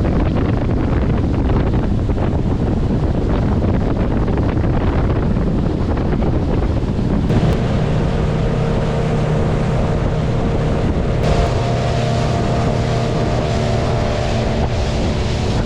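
A boat's motor running steadily under way, with wind buffeting the microphone; about seven seconds in, a steadier humming tone comes up over the noise.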